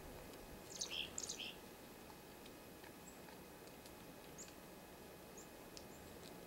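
Small birds calling: a quick burst of high chirps about a second in, then a few faint, scattered high chips.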